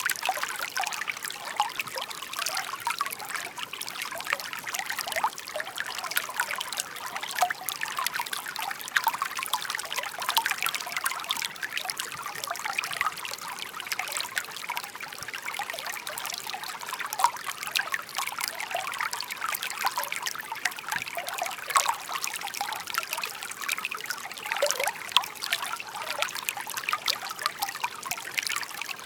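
Shallow stream babbling steadily, a continuous high trickle full of small splashes.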